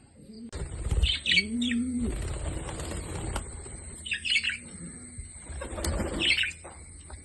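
Pet birds flapping their wings in several short flurries, with high chirps and a low cooing call in between.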